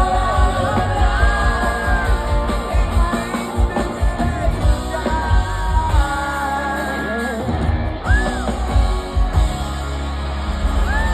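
Live rock band playing a pop-rock song with a singer's long held notes over heavy bass.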